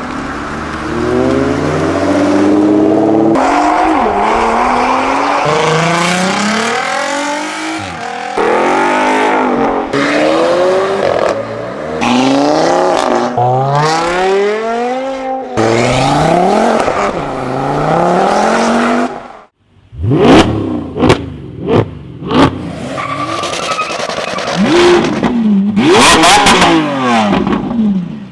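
Several modified cars accelerating hard one after another, each engine revving up through the gears with its pitch climbing and dropping back at every shift. About two-thirds of the way in, a series of sharp exhaust pops and bangs cracks out, followed by more high-revving acceleration.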